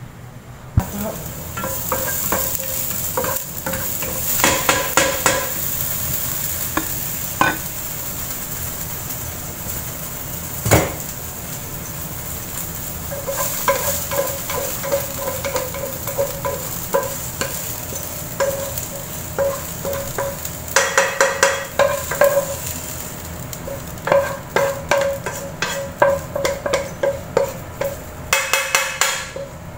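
Food sizzling in hot oil in a wok, stirred and scraped with a spatula; the sizzle starts about a second in, with bursts of spatula scraping and one sharp knock on the pan. Near the end, quick repeated scrapes as the wilted contents are scraped out of the wok into the soup pot.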